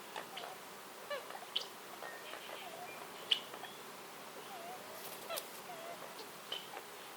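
Forest birds calling: scattered short chirps and brief wavering notes, with one sharp, louder chirp about three seconds in, over a faint steady hiss of woodland ambience.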